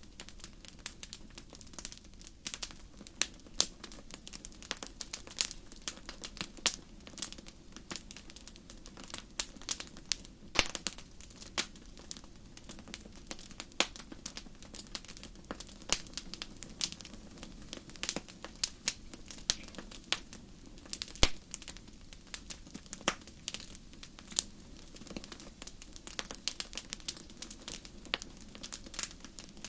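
Fire crackling in a fireplace: irregular sharp pops and snaps, several a second, over a low steady rumble, with louder snaps about ten and twenty-one seconds in.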